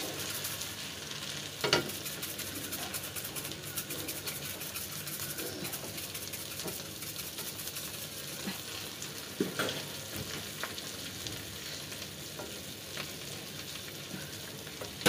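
Prawns frying in butter and garlic in a stainless-steel pan, a steady sizzle with stirring. Two sharp knocks stand out, about two seconds in and near ten seconds, with a few lighter taps between.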